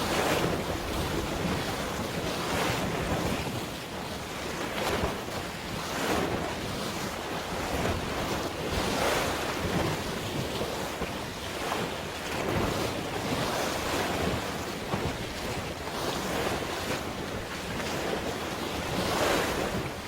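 Sea waves washing in, surging and easing every few seconds, with wind buffeting the microphone.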